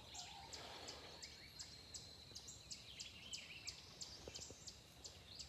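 Faint rural outdoor ambience: a high chirp repeats about three times a second, with a few soft bird calls among it.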